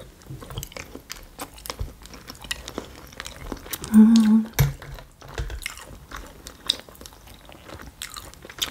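A person chewing and biting food, with many small, quick mouth clicks, and a short hum about four seconds in.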